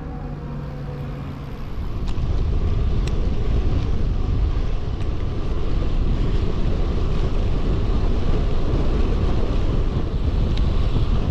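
Wind rushing over the microphone of a road cyclist's camera while riding, getting louder about two seconds in as speed picks up, with a few faint ticks.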